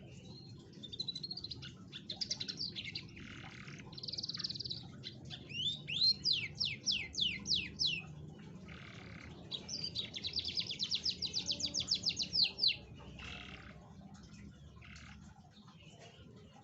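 Domestic canary singing a varied song of short phrases: a run of quick falling notes about six seconds in, then a fast rattling trill for a couple of seconds, before the song thins out near the end.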